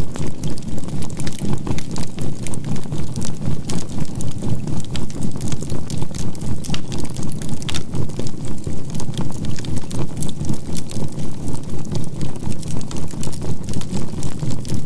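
Binaural-beat healing tone: a steady low hum that pulses evenly about three times a second, with a faint 528 Hz tone, over the crackling and popping of burning charcoal in a campfire.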